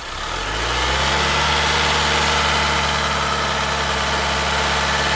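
Car engine idling steadily, with a low, even hum.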